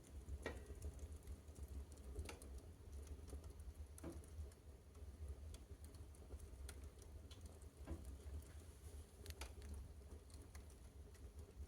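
Fire in a fireplace crackling faintly as it burns through leather, with scattered sharp pops, a handful of them louder, over a steady low rumble.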